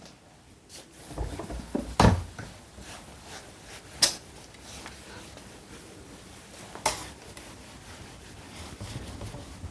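A few sharp knocks, about two, four and seven seconds in, with low thuds and faint rubbing between them, like objects being handled on a desk.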